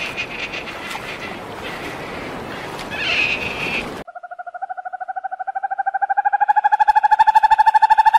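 For the first half, a few short high animal calls over a steady hiss. About halfway through, this cuts off sudden, and a frog's rapid pulsed trill starts, held on one pitch and growing louder.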